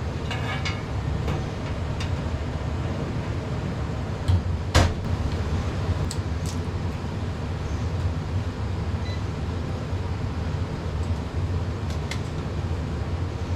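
Indoor HVAC air handler's ECM blower motor running with a steady low hum. A few sharp clicks and knocks from handling the unit sound over it, the loudest about five seconds in.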